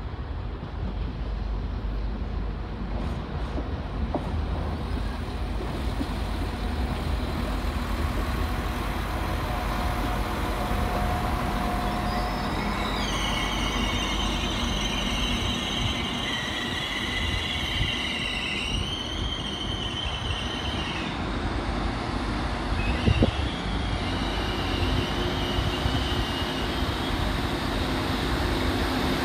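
A Northern class 195 diesel multiple unit rumbles through the station. Its wheels squeal for several seconds around the middle, and again briefly a little later. Near the end a steady engine hum comes in.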